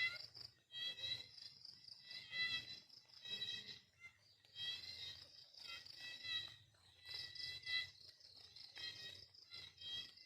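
Repeated high chirping animal calls, in trilling bursts about a second long with short gaps between them.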